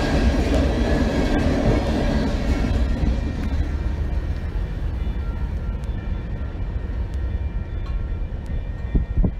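Tail end of a freight train of tank cars rolling over a grade crossing, the wheel rumble fading over the first few seconds as the last car clears and moves away. Grade-crossing warning bell ringing steadily, with a short low thud near the end.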